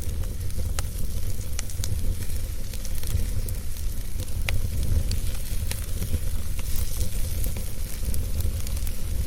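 Wood fire crackling in a fireplace: a steady hiss with scattered sharp pops, over a constant low rumble.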